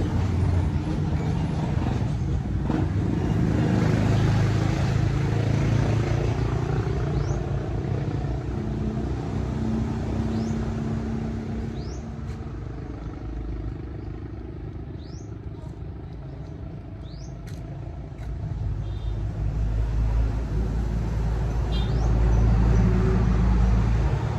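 Motor vehicle running along a road, with a low engine rumble and road noise. It eases off in the middle and grows louder again toward the end.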